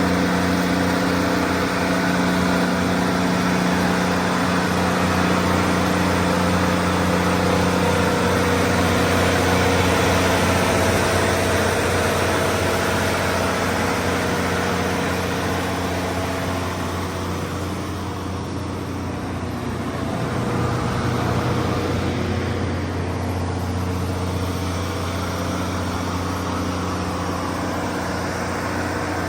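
Cummins QST30-G2 V12 diesel engine of a 750 kW generator set running steadily at constant speed, with a slight dip in loudness about two-thirds of the way through.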